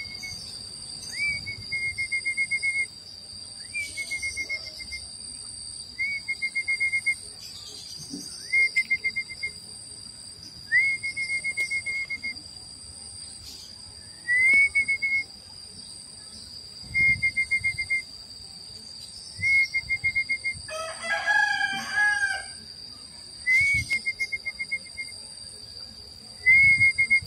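Outdoor sounds: a bird repeats one call about every two seconds, a quick rising whistle that runs into a rapid trill, over a steady high-pitched drone. A rooster crows once about three-quarters of the way through.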